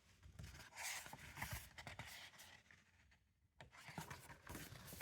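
Near silence with faint rustling and rubbing noises in two short spells, one about a second in and one near the end.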